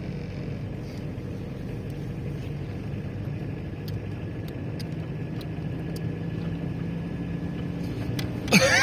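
Steady low drone of a car in motion, engine and road noise heard from inside. Near the end comes a brief, loud, high sound that slides in pitch.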